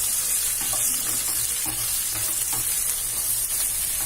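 Sliced onions and ginger-garlic paste sizzling as they fry in oil, with stirring strokes scraping the pan about once or twice a second.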